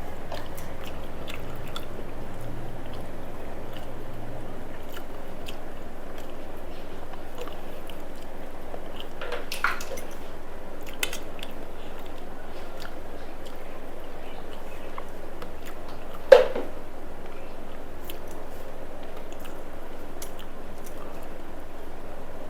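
Close-up eating sounds: a person chewing a mouthful of rice and vegetables, with scattered small clicks and one sharper click about sixteen seconds in, over steady background noise.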